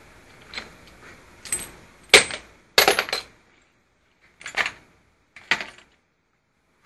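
Small metal parts of an air ratchet wrench being handled: a series of sharp clicks and clanks, about half a dozen, the loudest a cluster two to three seconds in.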